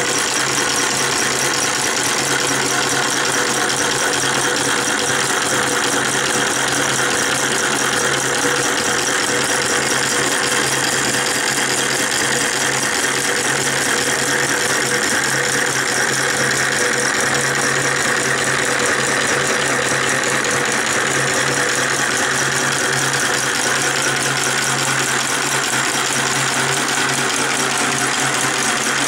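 Small model Stirling hot-air engine running steadily: a fast, even mechanical rattle with a steady low hum underneath.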